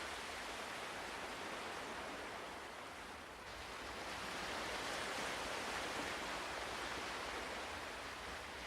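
Soft ocean surf, a steady wash of waves that ebbs a little about three seconds in and swells again.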